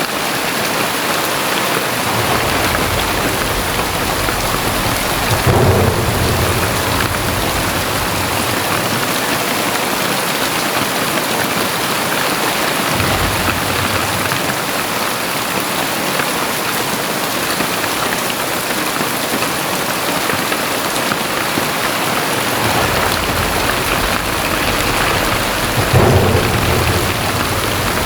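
Very heavy rain pouring steadily. Two long low rumbles swell under it, loudest about five and a half seconds in and again near the end.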